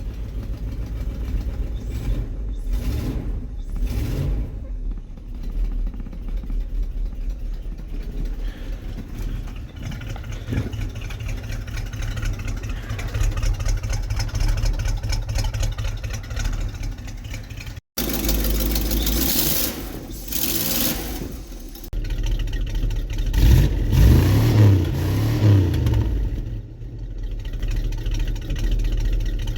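The 318 V8 of a 1979 Winnebago motorhome idling through its exhaust with a loping chop. The sound breaks off for an instant about two-thirds of the way through, and a little later the engine is revved several times, louder.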